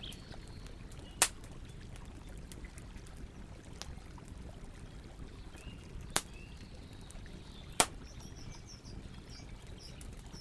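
Campfire crackling: three sharp wood pops, one about a second in and two more later, with a few fainter ticks, over the steady low rush of river water. Faint bird chirps.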